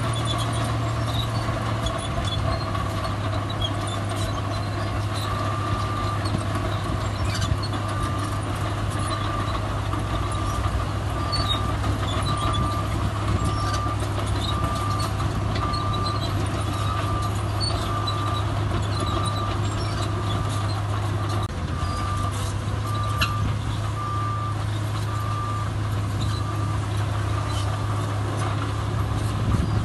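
Heavy diesel earthmoving machinery running steadily, with a reversing alarm beeping about once a second from about five seconds in until near the end.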